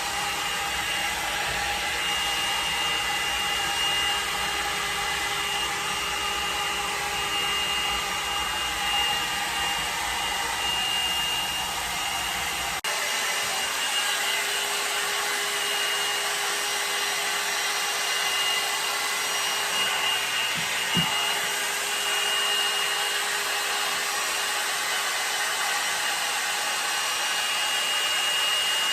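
L'ange blow dryer brush running steadily, its fan blowing with a constant high motor whine as it is worked through wet hair.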